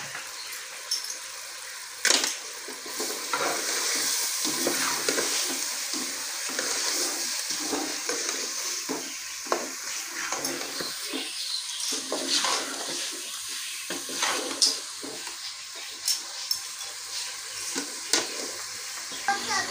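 Chicken pieces frying in masala in an aluminium pot, sizzling steadily while a steel ladle stirs and scrapes them, with sharp clinks of the ladle against the pot every few seconds, the loudest about two seconds in. This is the bhunai stage, the chicken being browned in the spice paste.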